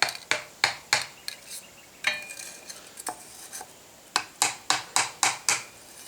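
Light metallic taps as the forged steel handle is tapped down onto the back of a wire brush: a run of about four in the first second and a half, then a quicker run of about six near the end.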